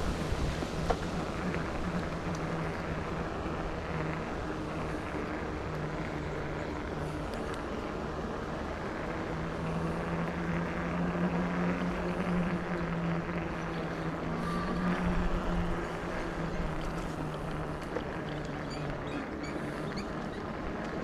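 Riding an e-bike: wind and tyre rumble on the microphone, with the steady low hum of the electric motor running throughout. The hum grows a little louder about halfway through.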